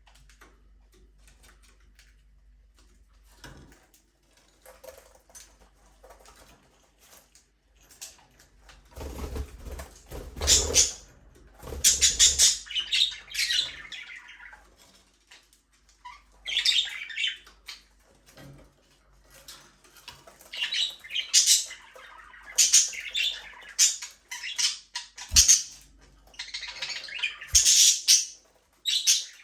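Budgerigars chirping and chattering in repeated bursts that begin about a third of the way in, after a quiet opening with a few faint ticks. A flutter of wings comes as the chirping starts, and two sharp knocks sound near the end.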